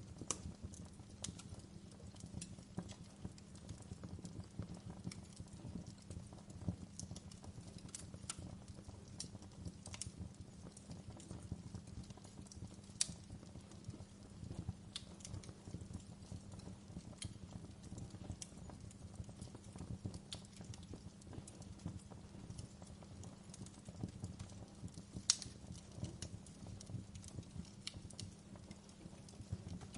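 Wood fire burning in a fireplace: a soft, steady low rustle of flames with irregular crackles and pops, two of them sharper than the rest, one a little before halfway and one late on.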